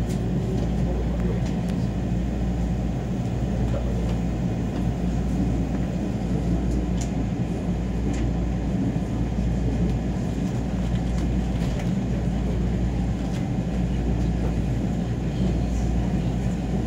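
Tokaido Shinkansen train running, heard from inside the passenger car: a steady low rumble of wheels and car body, with a few faint ticks.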